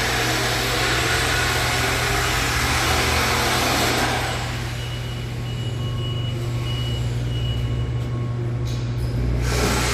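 A machine running steadily with a low hum under a loud hiss; the hiss eases about four seconds in and comes back near the end.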